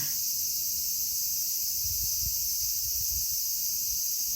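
Steady, continuous high-pitched insect chorus with no break, under faint irregular low rumbles.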